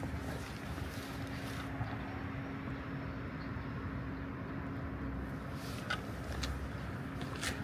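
Diesel engine of a Beiben 2642 6x6 heavy truck running steadily, a low rumble with a constant hum, and a few short clicks over it.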